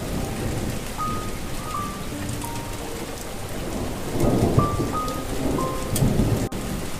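Steady rain falling, with low rumbles of thunder swelling about four seconds in and again near six seconds, under a slow, soft melody of single held notes.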